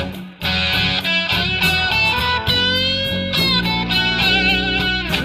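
Blues band music: an electric guitar plays a lead line with bending notes over bass and a steady drum beat with cymbal hits. The band cuts out briefly about half a second in.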